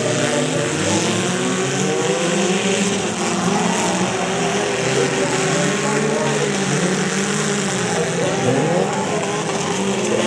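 Engines of several compact demolition-derby cars revving up and down at once, their pitches rising and falling over one another, over a steady haze of noise.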